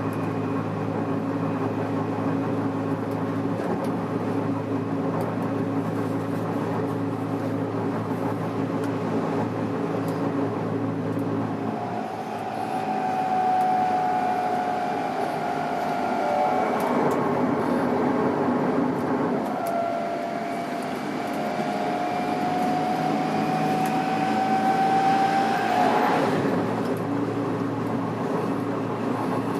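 Tokyo Metro 06 series electric train heard from inside the car: a steady running hum, then from about twelve seconds in the traction inverter's whine, which sags in pitch, breaks off, then rises again before stopping abruptly near the end.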